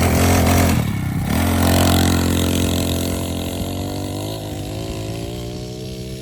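A vehicle engine speeding up: its pitch rises, drops sharply about a second in, then holds and climbs slowly again.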